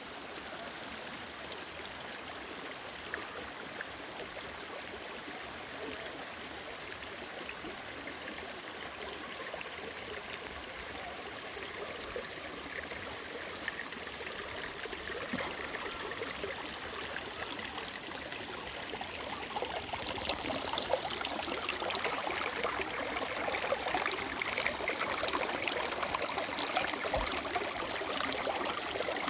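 Running water, a steady rushing that grows louder about two-thirds of the way through.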